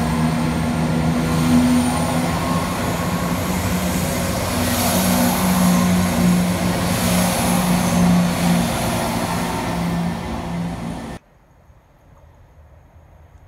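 ScotRail passenger multiple-unit train passing close by: a steady rush of wheel-on-rail and running noise with a low hum through it, cutting off abruptly about eleven seconds in.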